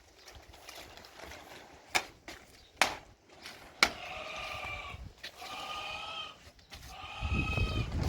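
Small livestock bleating: three drawn-out calls in the second half, each about a second long, after three sharp knocks. A low rumble comes up near the end.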